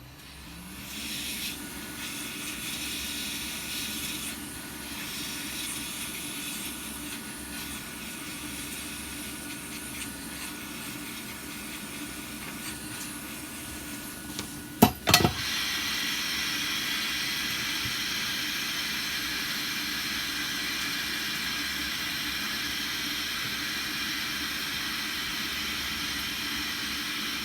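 An electric hot-air blower running with a steady airy hiss and a faint motor hum. It spins up at the start and winds down at the end. About halfway through, a few sharp clicks come, and after them it blows louder.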